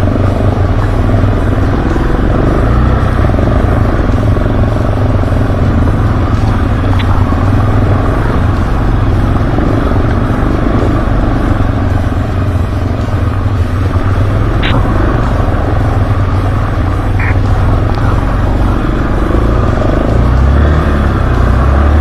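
Motorcycle engine running steadily while being ridden, loud throughout, with a few brief clicks along the way.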